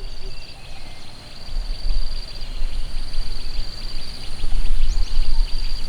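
Outdoor ambience in the rain: scattered raindrop ticks under a steady high-pitched drone, with a few short chirps and an uneven low rumble that swells twice.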